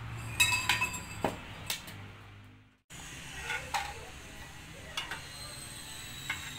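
Metal exhaust pipe pieces clinking and tapping as they are handled, several sharp clinks in the first two seconds and a few more after a brief gap near three seconds in, over a steady low hum.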